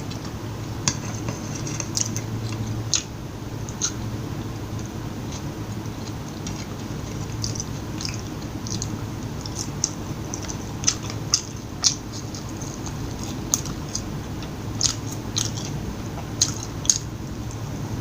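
Close-miked chewing of McDonald's food: moist mouth sounds with scattered short crunches and clicks, more frequent in the second half, over a steady low hum.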